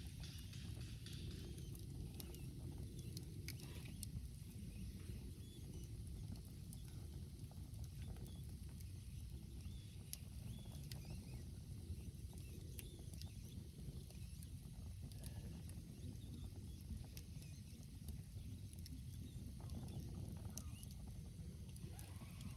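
Wood campfire crackling: scattered small snaps and pops over a low, steady rumble.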